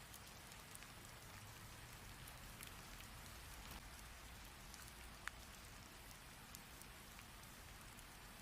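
Rain falling steadily, a soft even hiss with scattered drops ticking, and one sharper drop about five seconds in.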